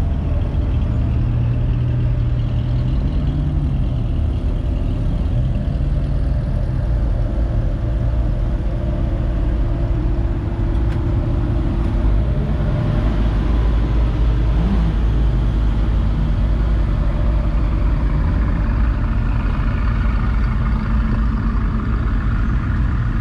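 A motor vehicle's engine running steadily close by, a continuous low drone whose pitch shifts slightly a few times.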